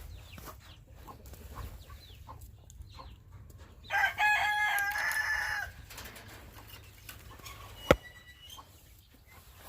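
A rooster crowing once, a call of under two seconds about four seconds in. A single sharp knock follows about two seconds later.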